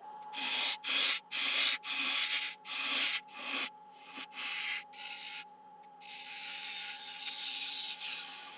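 Turning tool cutting the last wood from the centre of a spinning Iroko platter on a lathe: about six short scraping passes in quick succession, then a few lighter ones and one longer continuous cut, over the lathe's steady hum.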